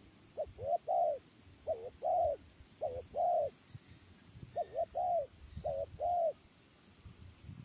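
Spotted dove cooing: two song phrases, each a run of short notes and longer, drawn-out coos, with a pause of about a second between the phrases.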